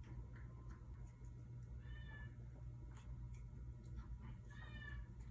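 A cat meowing twice, two short faint high-pitched mews about two seconds in and near the end, over a steady low hum.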